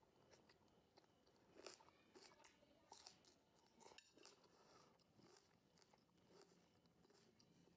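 Faint, close-up chewing of raw green tomato, with a few crisp crunches as it is bitten and chewed.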